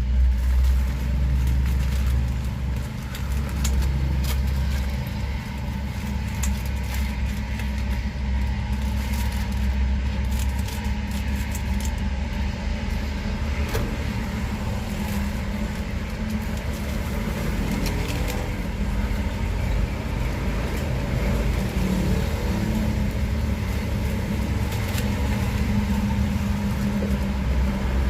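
Steady low rumble of motor traffic with scattered small clicks and knocks over it.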